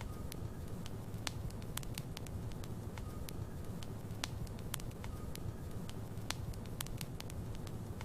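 Burning logs in a fireplace crackling: irregular sharp pops and snaps over a steady low rumble of the flames, with a faint brief whistle recurring every couple of seconds.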